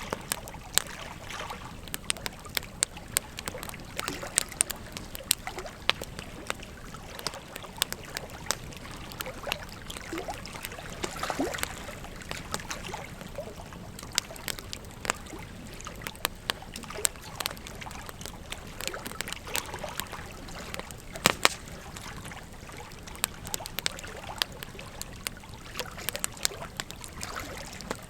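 Wood fire crackling, with frequent irregular sharp pops and snaps, one louder pop about three quarters of the way through, over the steady rush of flowing river water.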